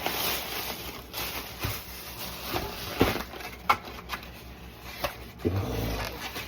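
Takeout food packaging being handled and opened: paper and cardboard rustling and scraping, with a few sharp knocks and clicks along the way.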